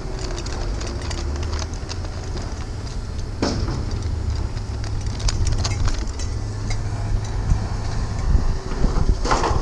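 A vehicle engine running steadily with a low rumble, with a few scattered clanks and knocks: one about three and a half seconds in and another near the end.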